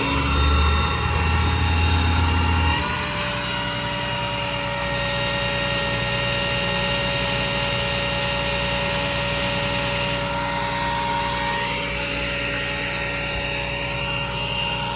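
Motor vehicle engines idling and running in slow traffic, with a louder low engine rumble for the first three seconds or so, then a steady hum.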